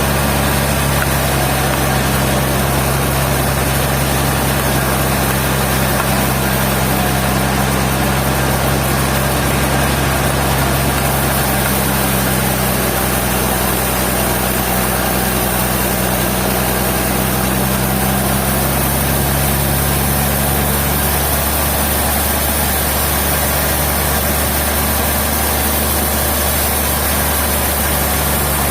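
Sawmill machinery running: a steady engine-like drone with an even hiss over it. Its hum shifts slightly about three quarters of the way through.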